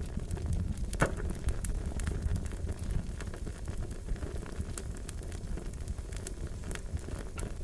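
Fire crackling: scattered sharp pops and snaps over a steady low rumble of flames, with one louder pop about a second in.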